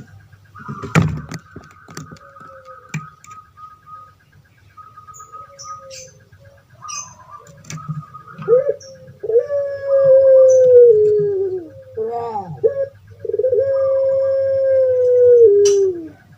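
Puter pelung (Barbary dove, Streptopelia risoria) cooing: a few short notes, then two long drawn-out coos, each held steady before dropping in pitch at the end.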